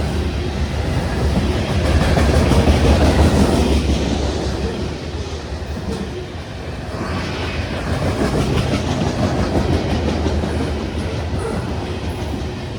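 Freight cars of a manifest train rolling past, a steady rumble with the wheels clicking rapidly over the rail joints.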